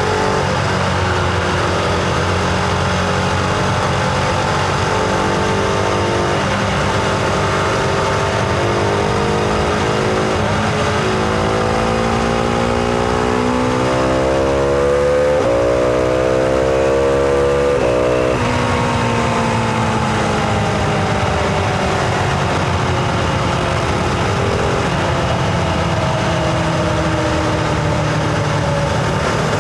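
Husqvarna Vitpilen 701's single-cylinder engine under way. It cruises steadily, then climbs in pitch under acceleration through the middle. About two-thirds of the way in the pitch drops abruptly, then falls away and settles again.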